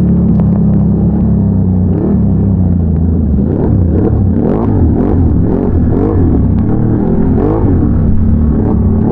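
Big-bore Can-Am Renegade ATV V-twin engine (bored out to 1180 cc) running steadily for about two seconds, then rising and falling in pitch with repeated throttle changes about once a second.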